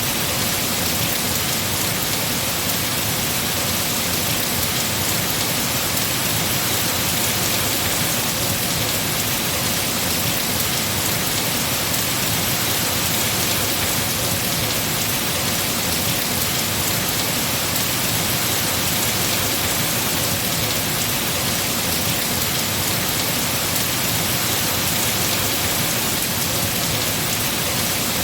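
Heavy rain falling steadily on tree foliage, an even, unbroken hiss.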